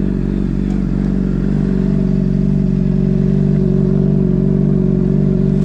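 Motorcycle engine running steadily, getting a little louder about two seconds in.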